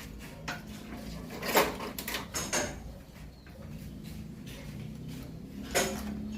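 Metal hand tools and parts clinking and knocking, several separate strikes, over a low steady hum.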